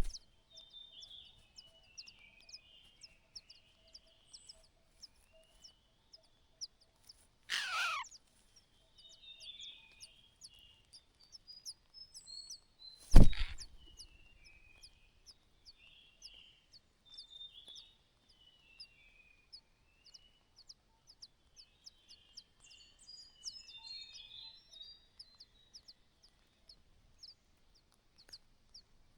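Small birds chirping on and off, with one loud call sweeping down in pitch about eight seconds in and a single sharp knock about thirteen seconds in, the loudest thing heard.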